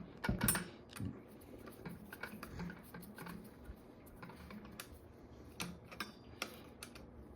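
Scattered light clicks and taps of a hand tool and small metal parts while screws are hand-started into an e-bike hub motor, a little louder in the first second.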